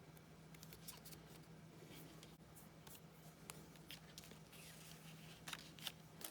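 Near silence: faint rustles and light taps of cardstock and paper being handled, over a low steady hum.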